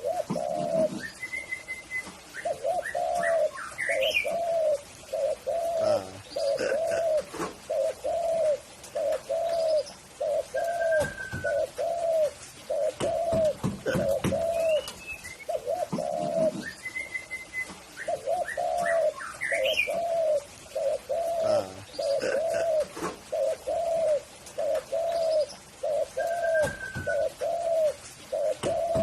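Spotted dove (tekukur) cooing: long runs of rounded, repeated coo notes, about one and a half a second, in two bouts with a short pause between. Fainter chirps and whistles of smaller birds sound higher above it.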